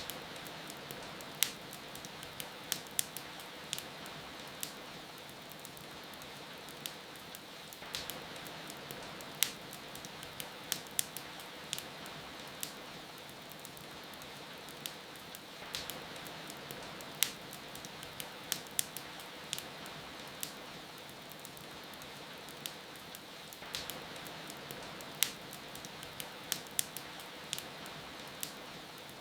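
Wood fire crackling, with irregular sharp pops scattered over a steady hiss of rain.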